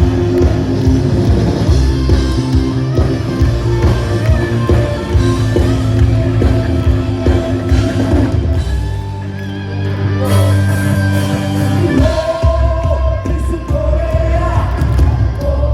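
Live rock band playing with singing and electric guitar. About halfway through the band holds one chord for a few seconds, then comes back in with a sung melody.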